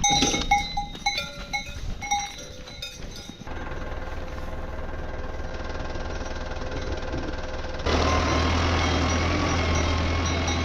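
A few short bell-like clinks and knocks, then a steady engine running, switching abruptly to a louder engine sound about eight seconds in.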